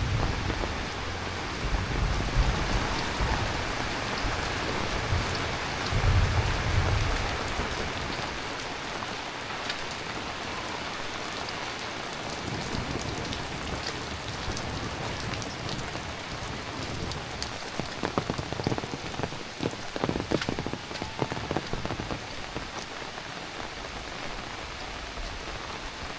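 Heavy rain falling steadily, with low rumbles in the first seven seconds and a cluster of sharper drop hits around twenty seconds in.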